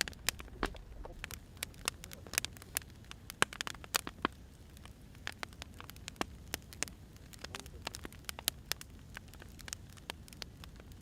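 Wood fire crackling and popping, with irregular sharp snaps of varying loudness over a faint hiss.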